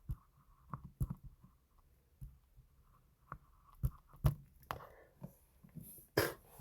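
Quiet room tone with scattered faint clicks and small knocks, and a short breathy rush of noise about six seconds in.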